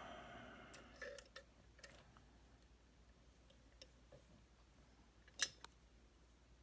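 Faint, light clicks and taps of lock-picking tools being handled and set into a Titan T250 dimple lock: a few small clicks about a second in, and one sharper double click just past five seconds.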